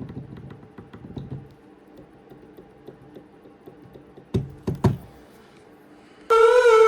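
Light, rapid clicks and knocks from a 2018 Nissan Rogue's steering-column cardan joint as the shaft is rocked by hand; the mechanic traces the car's knocking to play in this joint. A couple of louder knocks come a little after four seconds in, and music starts near the end.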